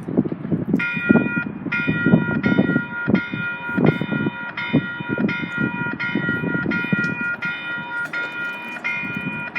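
Electronic warning bell at a C-Train light-rail level crossing, starting about a second in and ringing steadily at about two strokes a second, signalling an approaching train. Gusty wind noise on the microphone underneath.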